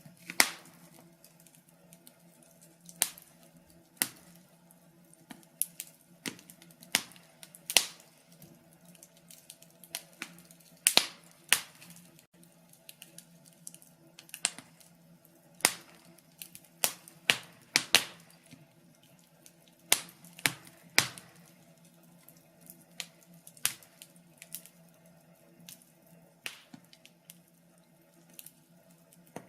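Wood fire crackling: sharp, irregular pops and snaps, sometimes several in quick succession, over a faint steady low hum.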